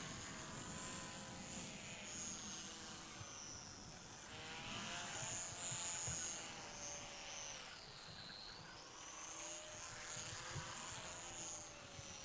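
Small electric RC model plane (Top RC Hobby mini SF260) in flight, its motor and propeller giving a faint high whine that rises and falls in pitch, dipping lower about eight seconds in before climbing back.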